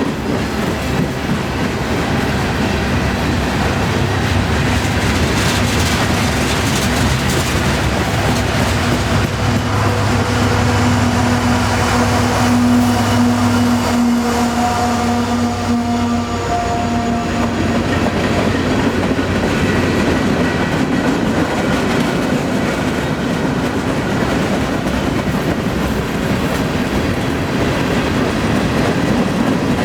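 Freight cars of a long train rolling slowly past: a steady rumble with wheels clattering over the rail joints. Through the middle there is a steady humming drone, which fades out a little after halfway.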